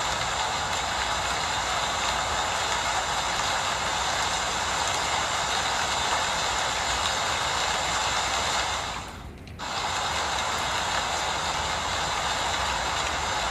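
Steady rain falling, an even hiss that briefly drops out for about half a second around two thirds of the way through.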